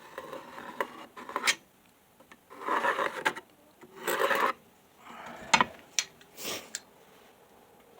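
Pencil scratching across the wooden boards in several short strokes, marking a straight line across them, with a few light clicks in between.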